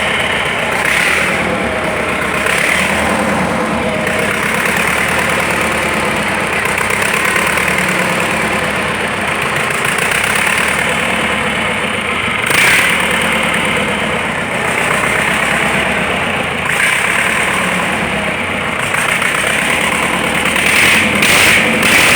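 A DT-75 crawler tractor's engine running steadily just after a major overhaul, with a few brief louder surges partway through and near the end.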